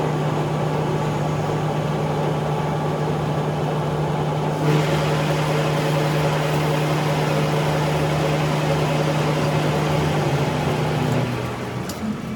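A machine running with a steady low hum; a few seconds in, a hissing noise joins it, and shortly before the end the hum drops away.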